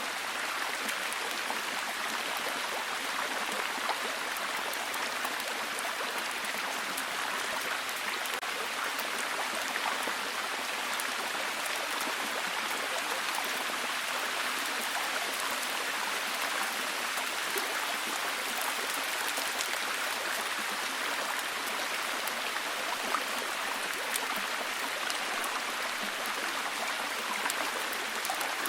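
Steady heavy rain: a dense, even hiss of falling water with many fine drop ticks through it, unchanging throughout.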